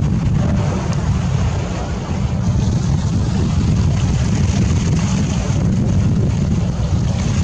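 Steady low rumble of wind buffeting the microphone over the running of a fishing boat and the wash of the sea.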